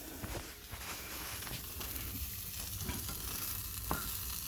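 A grilled cheese sandwich sizzling in a hot frying pan, with scattered scraping clicks of a utensil against the pan as the burnt sandwich, stuck fast to the pan, is pried at.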